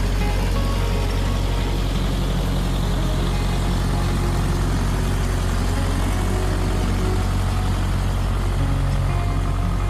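Belarus 102 tractor engine running steadily while working an 8-foot snowblower.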